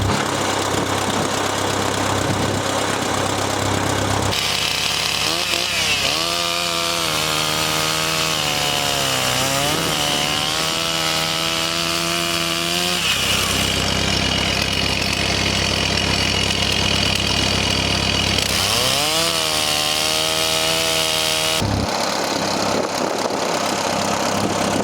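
An engine running continuously, its pitch rising and falling under changing throttle or load for several seconds twice, with a hissing high-pitched noise over it.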